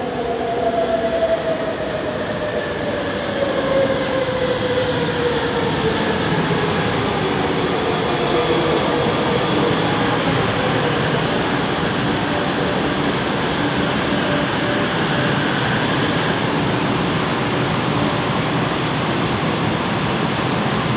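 Bombardier Innovia ART 200 light-metro train's linear induction motors whining as it slows, the tones falling in pitch over the first several seconds, then steady running and rail noise. The motor note is an unusual, weird-sounding one for this train.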